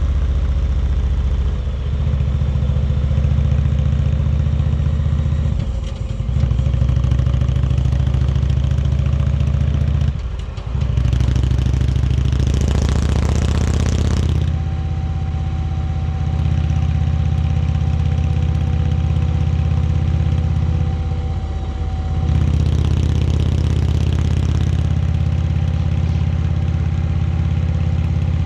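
Indian Chieftain Darkhorse's V-twin engine running under way at steady cruise, with a few brief dips in the engine note as throttle comes off. A few seconds of rushing noise come in around the middle.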